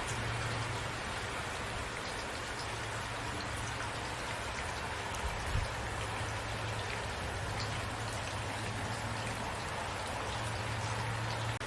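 Steady rainfall, with drops pattering on surfaces in an even hiss. There is a brief low thump about halfway through, and the sound breaks off for an instant near the end.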